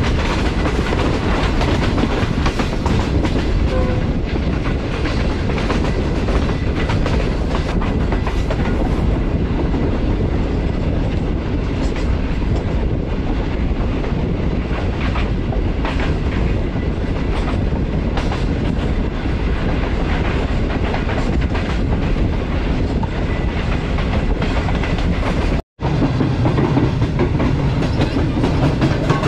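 Green Line Express passenger train running on the track, heard from on board: a steady rumble of the coaches with the clickety-clack of wheels over the rail joints. It drops out for an instant near the end.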